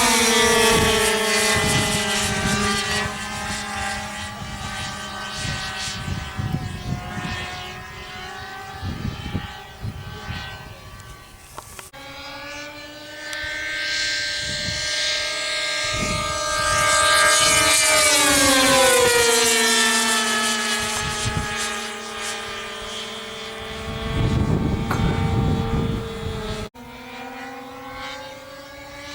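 Two Irvine 53 two-stroke glow engines of a twin-engine RC delta running at speed in flight, swelling as the plane comes close and dropping in pitch as it flies past, then fading as it moves away.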